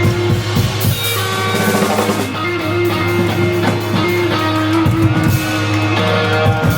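Rock band playing an instrumental passage: guitar with held, ringing notes over bass and drum kit.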